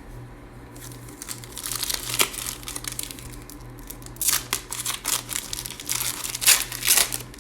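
Plastic trading card pack wrapper being torn open and crinkled, in two spells of crackling: a short one about a second in, and a longer, louder one from about four seconds in, over a low steady hum.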